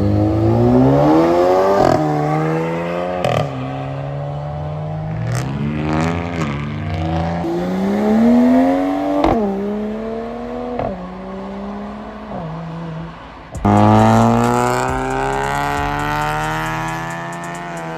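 A car engine accelerating hard. Its note climbs and then drops sharply several times as it shifts up through the gears. Near the end it changes abruptly to another loud engine run that rises again.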